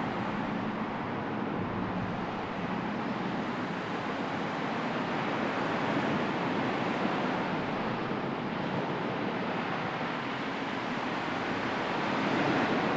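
Ocean surf washing steadily, swelling a little about six seconds in and again near the end.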